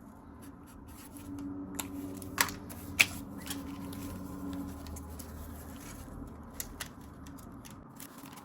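Paper banknotes and cash envelopes being handled: light rustling with scattered small clicks, and two sharper clicks about two and a half and three seconds in.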